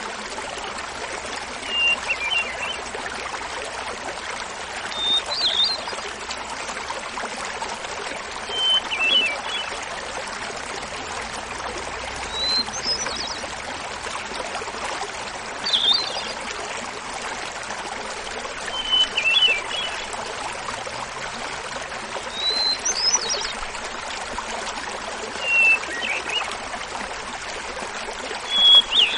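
Hermit thrush singing its fluty song over the steady rush of a small mountain waterfall. About every three and a half seconds a phrase comes: one clear held note, then a quick fluttering run. Each phrase is pitched higher or lower than the one before.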